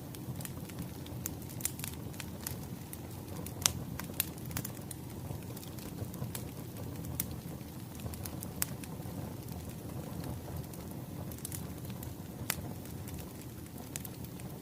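Wood fire burning: a steady low rumble with irregular sharp crackles and pops of burning firewood, the loudest pop a little under four seconds in.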